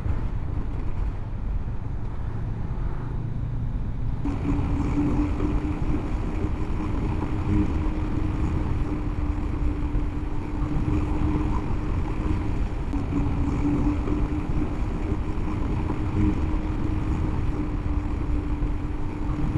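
Onboard sound of a Honda CB500X parallel-twin motorcycle cruising at steady speed, with wind rumble on the camera microphone. A steady hum comes in about four seconds in and holds.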